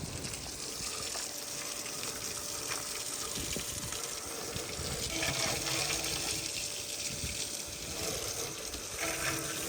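Water running steadily, a continuous rushing flow.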